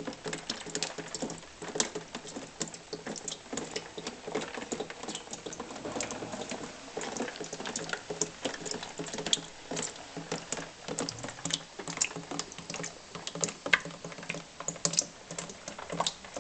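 Rain heard through a window: a steady patter with many irregular sharp drips and taps.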